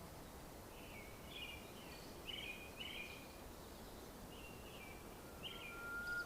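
Small birds chirping faintly in short repeated calls, roughly two a second, over low outdoor background noise.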